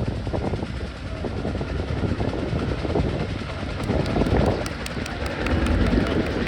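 Military helicopter taking off: the rotor beats in quick, even pulses over a steady engine rumble.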